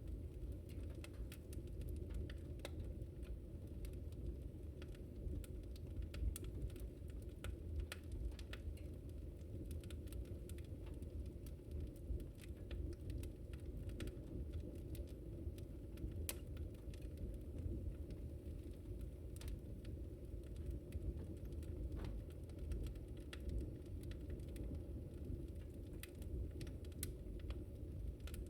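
Wood fire crackling: scattered sharp pops and snaps, irregular and unevenly spaced, over a steady low rumble of the flames, with a louder pop about six seconds in.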